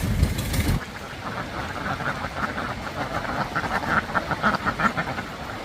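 A large flock of ducks quacking, many short calls overlapping. A low engine rumble stops abruptly under a second in.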